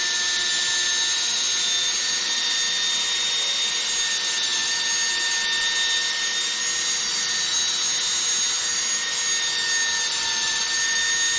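Cordless drill running steadily at full speed on a freshly charged battery, spinning a 500-grit sanding disc to wet-sand a plastic headlight lens. A steady motor whine sits over the hiss of the sandpaper on the lens.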